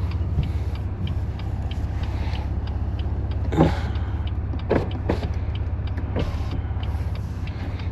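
Straight-piped BMW S55 twin-turbo inline-six of a 2018 F80 M3 Competition running at low, steady revs with a deep, even rumble. A few brief sharp sounds cut through it between about three and a half and six seconds in.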